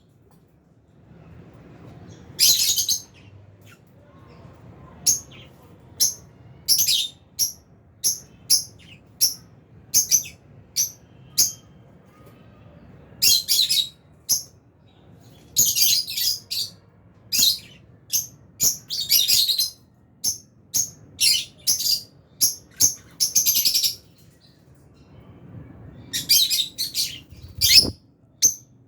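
A flock of lovebirds chirping: many short, high-pitched chirps, some single and some in quick runs, at irregular intervals.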